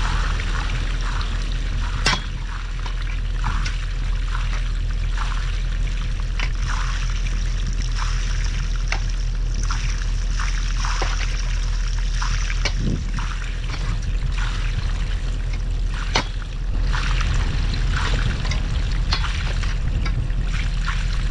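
Water trickling and splashing as the cut waterline drains into the excavation, with a low, steady engine hum underneath.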